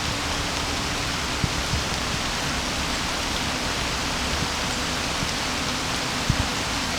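Steady rain falling, an even hiss, with a few soft taps close by, two of them near the end.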